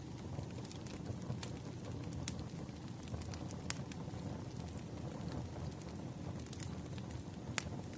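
Crackling wood fire: scattered sharp pops and snaps over a low steady rumble, the loudest pops about two, four and seven and a half seconds in.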